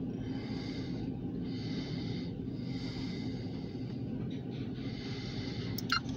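Covered grain hopper cars of a freight train rolling slowly past, a steady low rumble heard through the closed car, with a single sharp click near the end.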